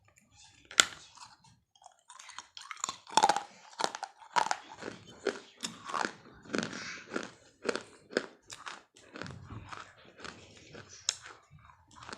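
Close-up crunching and chewing of pieces of baked clay pot and slate pencil: irregular, sharp, brittle crunches one after another, the loudest about a second in.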